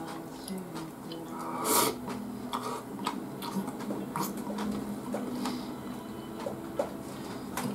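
A person eating, with close-up chewing and mouth noises and sharp little clicks, and a short loud breathy noise about two seconds in.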